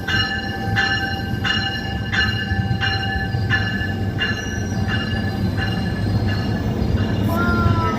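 A railway bell ringing in steady strikes about one and a half a second over the rumble of a passing train; the bell dies away about six seconds in, and a short falling squeal follows near the end.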